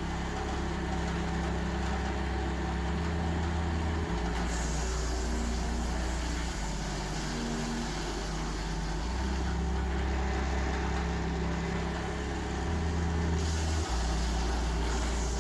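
Engine-driven hydraulic log splitter running, a steady low engine drone that shifts suddenly in pitch and level three times.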